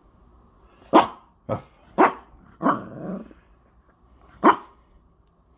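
A dog barking on the command "speak": five sharp, separate barks at uneven spacing, the fourth a little longer and trailing off.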